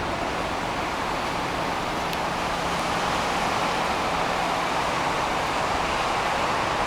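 Steady wash of road traffic noise, with a faint low steady hum underneath.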